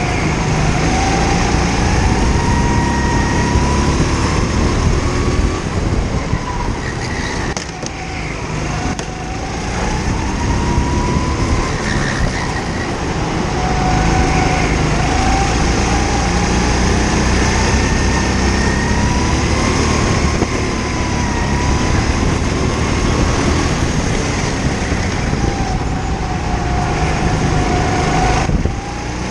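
Go-kart engine revving up and down lap after lap, its pitch rising on the straights and falling into the corners several times over.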